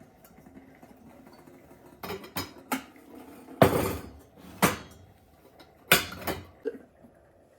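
Dishes and cutlery being handled, clattering and clinking in a string of knocks, the loudest about three and a half seconds in and another cluster around six seconds in.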